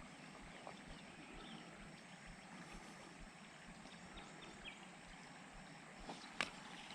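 Faint outdoor background noise with a few short, faint high chirps, and a single sharp click near the end.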